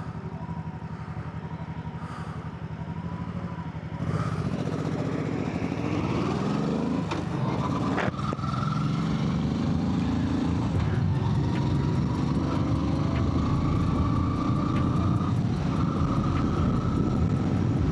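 Yamaha MT-07's parallel-twin engine ticking over steadily. About four seconds in it pulls away, the revs climbing with a shift near eight seconds, then it runs on steadily under way.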